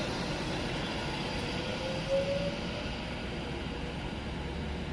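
Class 390 Pendolino electric train running past and away along the platform: a steady rumble of wheels on rail with a brief rising squeal about two seconds in, fading slowly as it draws off.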